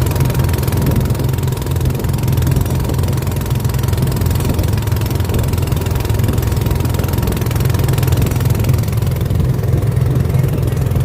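A boat's engine running steadily, a constant low drone.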